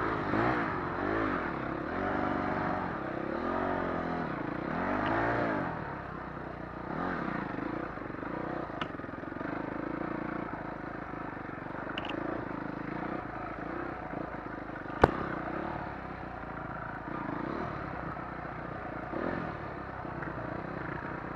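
Dirt bike engines revving, rising and falling in pitch several times over the first few seconds, then running more steadily. A single sharp click about fifteen seconds in.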